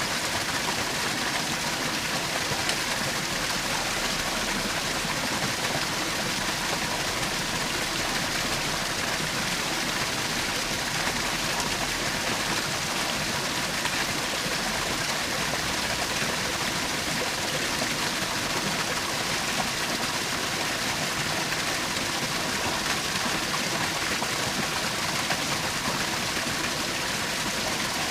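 Small forest waterfall splashing steadily, a constant rush of falling water.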